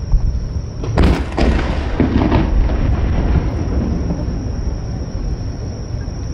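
A firework shell bursting about a second in, a boom followed by crackling that fades over a second or so, over a steady low rumble.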